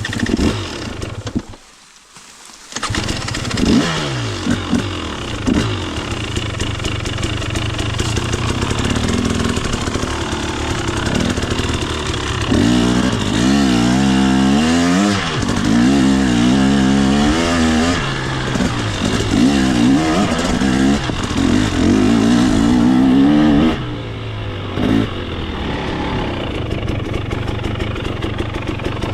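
KTM 250 XC single-cylinder two-stroke dirt bike engine. It drops away briefly about two seconds in, then runs again. Through the middle it is revved up and down repeatedly with a warbling pitch, and it settles toward idle near the end.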